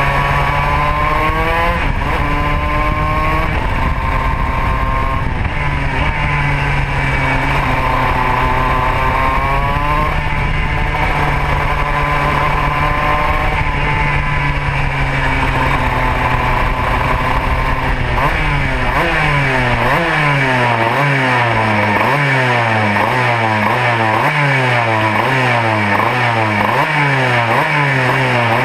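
Modena two-stroke kart engine running at speed, its pitch climbing and falling in long sweeps. About two-thirds of the way through it changes to a quick, regular rise-and-drop of pitch, roughly once a second.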